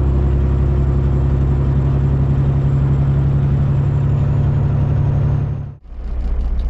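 Semi truck's Detroit Diesel Series 60 engine running steadily, heard from inside the cab. Near the end the sound cuts out abruptly and comes back as a lower, steadier drone, the engine idling.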